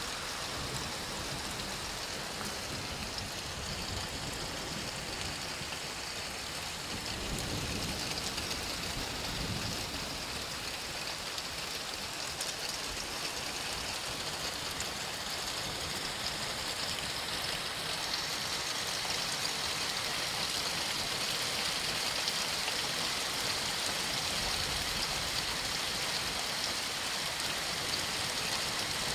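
Heavy thunderstorm downpour of rain and hail, a steady hiss of falling water that swells a little about seven seconds in and again past the middle.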